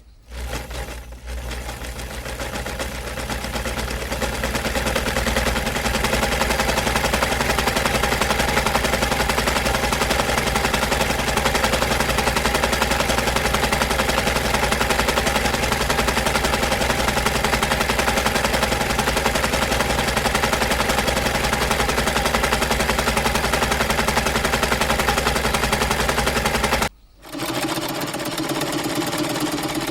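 A household machine runs with a fast, even mechanical rattle over a steady motor hum. It builds up over the first few seconds and cuts off suddenly near the end.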